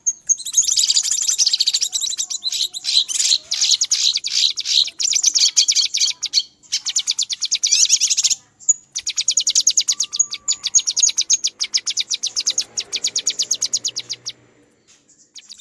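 Cucak kinoi giving rapid, excited chattering calls, a fast run of high-pitched notes with a few short breaks, used as a lure call for wild kinoi; it stops about a second before the end.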